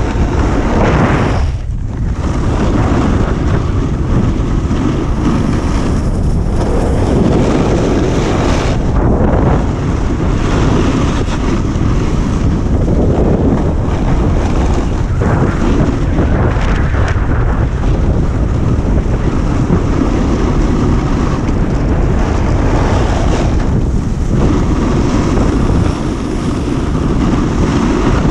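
Wind rushing over a GoPro's microphone at snowboarding speed, a loud steady rumble that swells and eases every few seconds.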